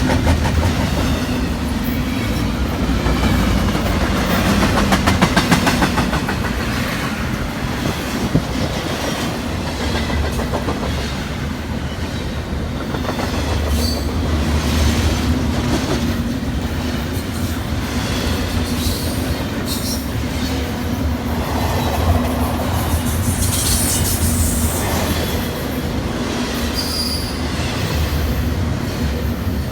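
A train rolling past on the rails: a steady rumble and wheel noise, with short high-pitched wheel squeals now and then.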